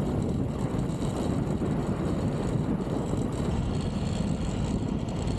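Triumph Tiger 1200 GT Pro motorcycle on the move at a steady pace: a steady low rumble of its three-cylinder engine and road and wind noise picked up by the rider's onboard microphone.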